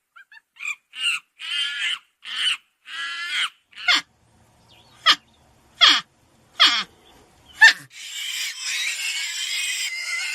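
A run of short, high-pitched animal calls, several sliding sharply down in pitch, then from about eight seconds in a dense, overlapping chorus of many animals calling at once.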